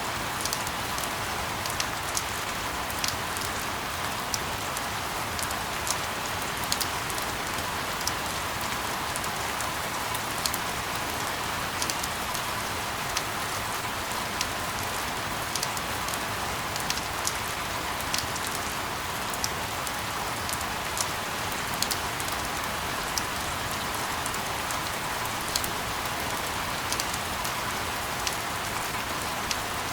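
Steady rain: an even hiss with scattered sharp drop ticks, played as a continuous sleep sound.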